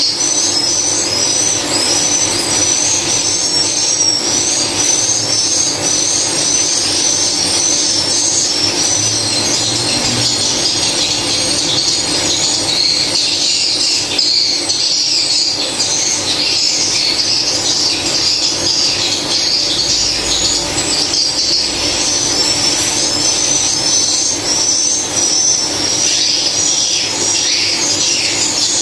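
Many swiftlets chirping all at once in a dense, continuous high-pitched twittering of short repeated calls, over a steady low hum.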